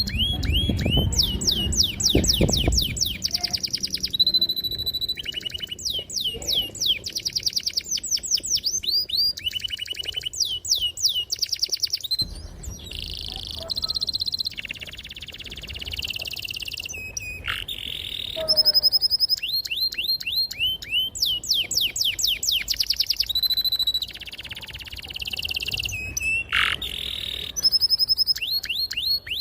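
Domestic canary singing a long, fast song: rapid trills of repeated falling notes, rolls and held whistled tones, with short breaks between phrases. A low rumble sits under the first few seconds.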